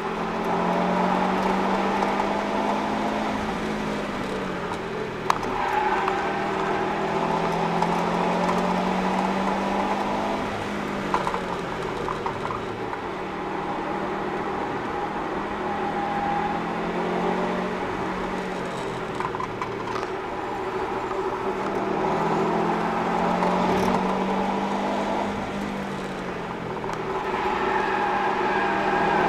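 Subaru Impreza WRX's turbocharged flat-four running hard through an Invidia cat-back exhaust, heard from inside the cabin; the engine note climbs and drops over and over as the car accelerates, brakes and changes gear through a string of corners. Two sharp knocks come about five seconds in and again about six seconds later.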